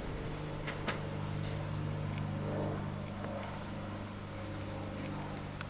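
A train at the platform giving off a steady low electrical hum, with a few faint clicks.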